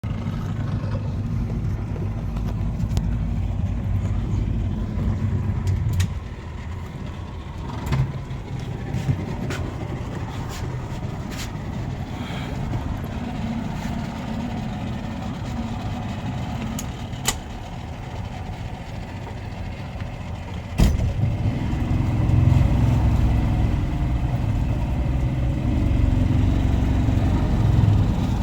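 An engine running with a steady low rumble. It eases off about six seconds in and picks up again after a sharp knock about 21 seconds in, with scattered clicks and knocks.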